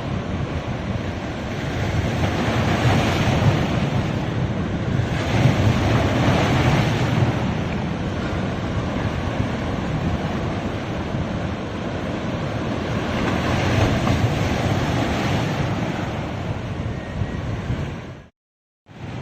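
Sea waves breaking on a beach, the surf swelling and easing in several surges, with wind on the microphone. The sound cuts out briefly near the end, then returns quieter.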